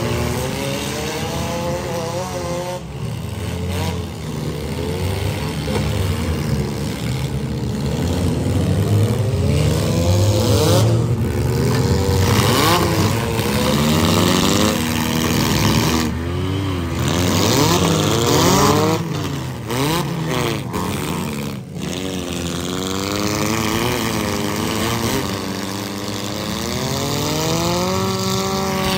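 Several demolition derby cars' engines revving hard at once, their pitches rising and falling and overlapping.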